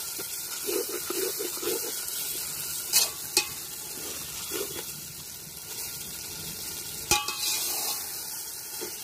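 Onion, tomato and chilli-powder masala frying and sizzling in oil in a large aluminium pot while a metal spatula stirs and scrapes through it. A few sharp knocks come about three seconds in and again near seven seconds.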